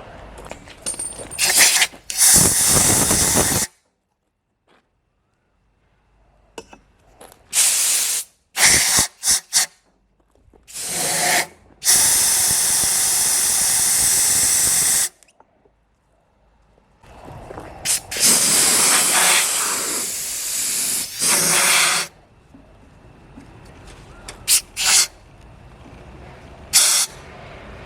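Homemade wood-gas-fired gas turbine giving a loud rushing hiss in repeated bursts of one to three seconds, each starting and stopping abruptly, with a few short blasts in between.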